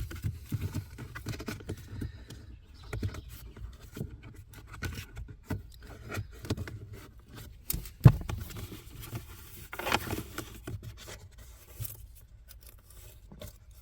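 Hand rummaging and scraping around inside a car's plastic blower-fan housing, picking out leaf debris: irregular rustling and small clicks, with one sharper knock about eight seconds in.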